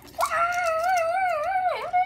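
A child's high voice holding one long, wavering vocal sound with no words, starting just after the beginning, with a sharp dip in pitch near the end.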